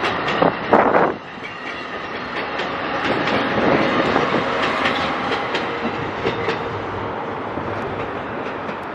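New Jersey Transit Multilevel passenger coaches rolling past, their wheels clacking over the rail joints. It is loudest for about the first second, then settles into a steadier rumble with scattered clicks.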